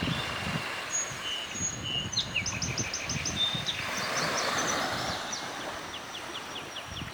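Birds chirping in quick runs of short, high notes with thin whistles, over a steady rush of waterfall water.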